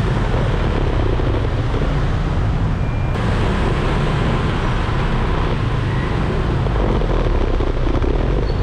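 Steady, loud vehicle noise heard from a moving scooter, a dense low rumble with no distinct events, with traffic around.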